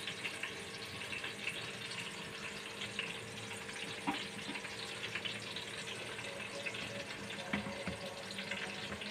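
Onions frying in oil: a faint, steady sizzle with fine crackling. A few soft knocks come from a glass grinder jar being handled.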